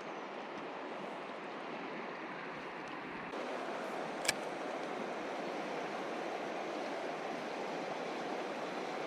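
Steady rush of a mountain river's flowing water, stepping up slightly in level about three seconds in, with a single sharp click about a second later.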